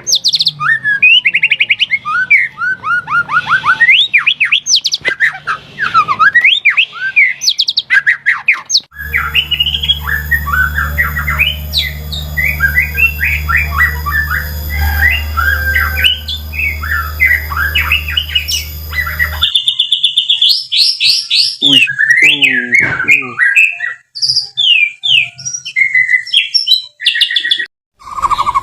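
White-rumped shama singing a fast, varied song of loud whistles, trills and quick rising and falling notes, with a few short breaks between phrases. A steady low hum runs under the song through the middle third.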